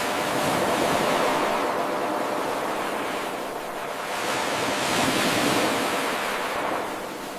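Ocean waves washing in on a shore, surging and ebbing in two swells, as an 8-second recording looped without a break. There is an abrupt jump in loudness at the very start, where the loop restarts.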